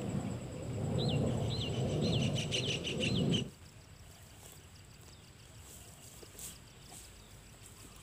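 A bird calls five times in quick succession, each a short rising-then-falling note, about two a second, over a heavy low rumbling noise. About three and a half seconds in, the rumble cuts off abruptly, leaving a quiet background with a faint steady high-pitched tone and a few faint ticks.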